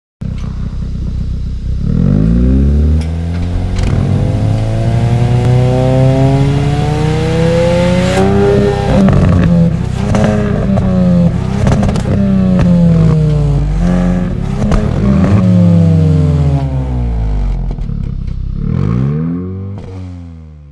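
Hyundai i20 N's 1.6-litre turbocharged four-cylinder engine heard at the exhaust, revved repeatedly: long rising and falling revs, then a string of quick blips with sharp cracks as the revs drop. It ends with two last blips and fades out near the end.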